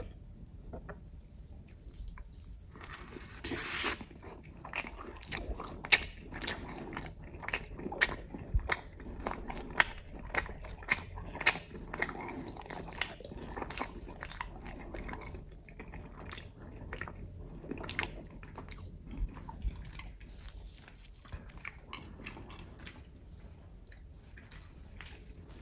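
Close-miked eating of a Domino's cheeseburger pizza slice: biting into it and chewing, with a fast run of crisp crunches and wet mouth clicks from the crust that thins out in the last few seconds.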